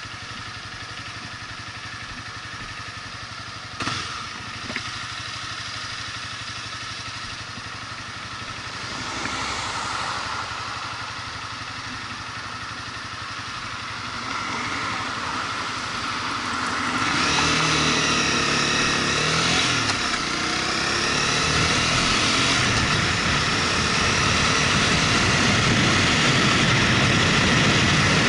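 Motorcycle engine running on the ride, steady at first, with two sharp clicks about four seconds in. About two-thirds of the way through, the engine note shifts and grows louder, and it stays louder to the end.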